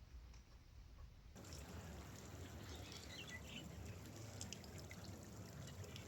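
Water lapping and trickling at a river's edge, with small scattered splashes and drips. The background changes abruptly about a second in, as the water sound starts.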